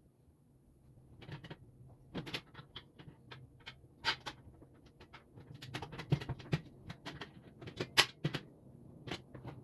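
Irregular light knocks and clicks of parts being handled and fitted together during assembly of a pre-fab work table, with sharper knocks about 4 and 8 seconds in.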